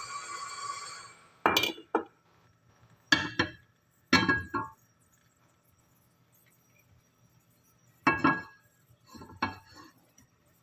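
Dishes clinking and knocking as they are handled: several short clusters of sharp clinks with a brief ring, two close together near the start, two more about a second apart, and two more near the end. Before them, a steady sound made of several tones fades out about a second in.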